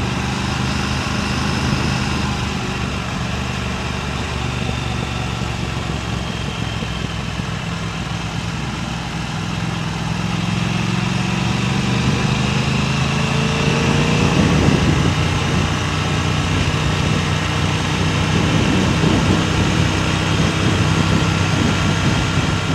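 Motorcycle engine running while riding, under steady wind and road noise; about halfway through, its pitch rises as it accelerates.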